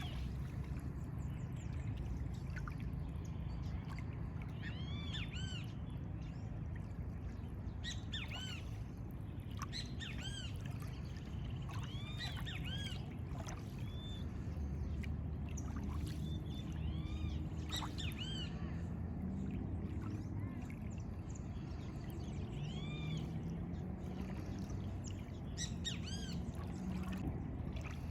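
Birds chirping again and again in short rising-and-falling calls over a low steady background rumble.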